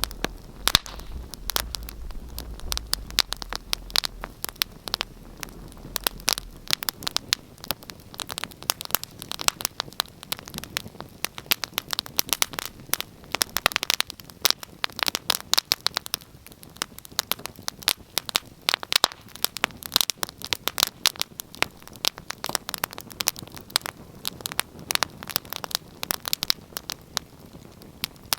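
Wood fire burning in a fireplace, crackling and popping with dense, irregular snaps throughout. A low rumble runs under it for the first several seconds, then stops.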